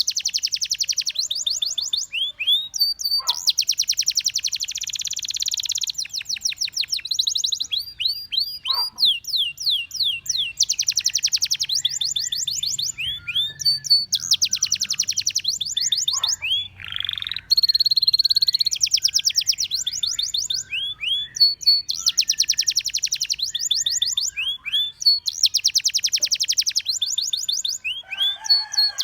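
A canary singing: long rolls of very fast repeated notes alternate with runs of quick sweeping whistled notes, and one steady held note comes about two-thirds of the way through.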